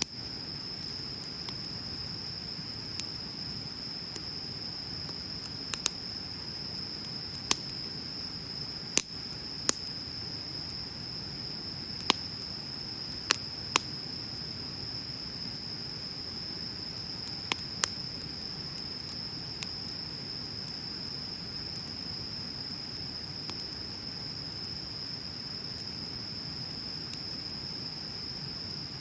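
Wood bonfire burning: a low, steady rush of flame broken by sharp crackling pops, about a dozen, mostly in the first two-thirds. A steady high insect trill runs underneath.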